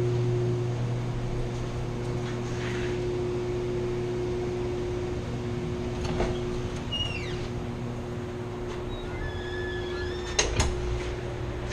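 Steady machinery hum in a chiller plant room, holding a low tone and a higher one. Two knocks about six and ten and a half seconds in, the second the loudest, with brief squeaks between them.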